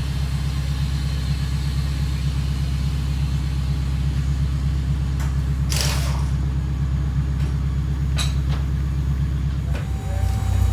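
Car engine idling with a steady low rumble through an exhaust header that has a hole and a crack in it, so the exhaust is leaking. A brief hiss comes about halfway, and the rumble changes and grows slightly louder near the end.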